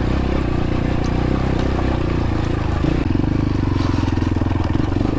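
X-Pro Templar X 250 dirt bike's 250cc engine running steadily while riding, its note changing about three seconds in.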